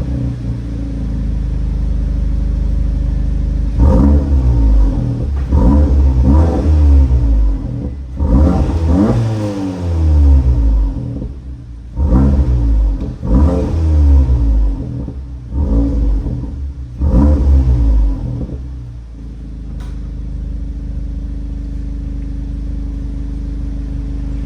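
Audi S3's turbocharged four-cylinder engine through an MBRP active cat-back exhaust with its valves open. It idles, is revved quickly about nine times with the pitch rising and falling each time, then settles back to idle.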